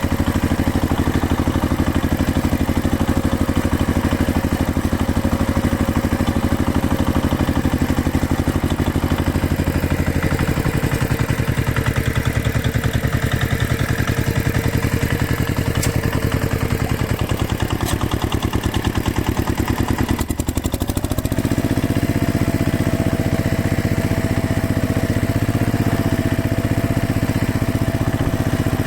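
Tractor engine running steadily. The engine note shifts about ten seconds in, and after a brief dip around twenty seconds in a different steady engine note takes over.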